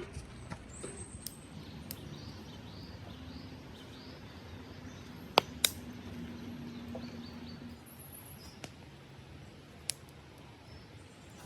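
Wild birds chirping in a series of short repeated calls, over a low background hiss. Two sharp clicks about a third of a second apart, a little past the middle, and a few fainter ones stand out above it.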